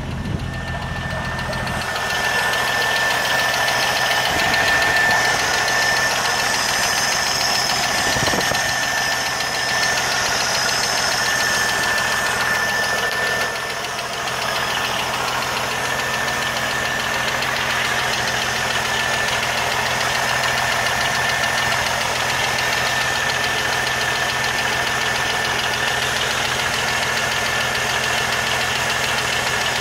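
1980 Jeep CJ7 engine running steadily with a fast, continuous ticking, the unexplained ticking noise that is the fault being chased.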